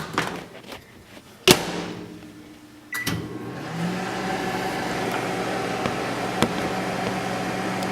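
Microwave oven door shut with a sharp bang about a second and a half in, a short beep around three seconds, then the microwave starts running with a steady hum.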